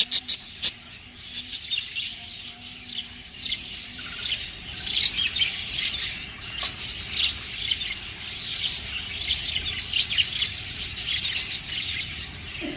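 Pet budgerigars chirping, a continuous run of short, high chirps.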